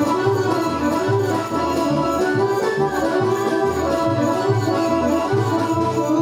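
Live Serbian folk orchestra playing a brisk Šumadija dance tune: a busy melody over a bass that pulses in regular notes.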